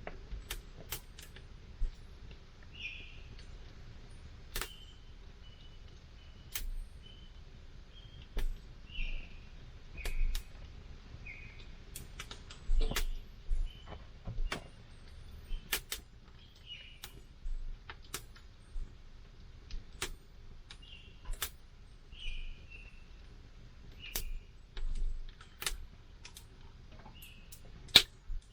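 Wood campfire crackling, with irregular sharp snaps and pops, one especially loud near the end. Short high chirping notes come and go in between the pops.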